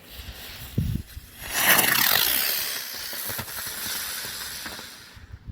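Daytime smoke chopper, a helicopter firework, igniting with a loud hiss about one and a half seconds in. Its whine falls in pitch as it spins up and flies off, then fades and cuts out near the end.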